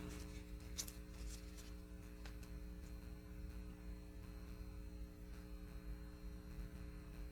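Faint steady electrical hum made of several fixed tones, with a few faint clicks about a second and two seconds in.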